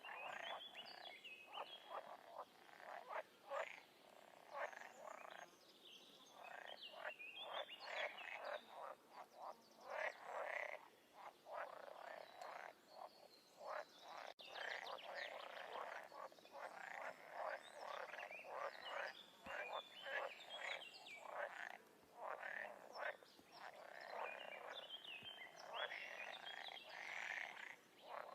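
A chorus of frogs croaking: many short calls overlapping and repeating, with a few brief lulls.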